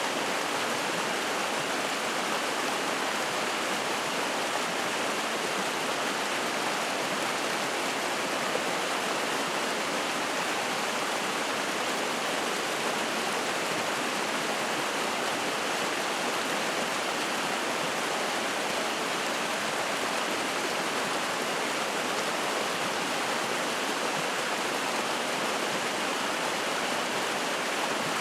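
Spring-fed mountain stream running and splashing, a steady, even rush of water with no separate events.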